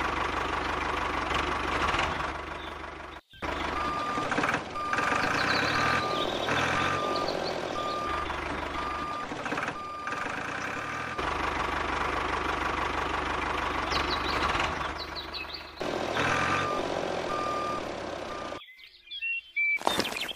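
Reversing alarm beeping over a running motor, with a short high beep repeating a little faster than once a second.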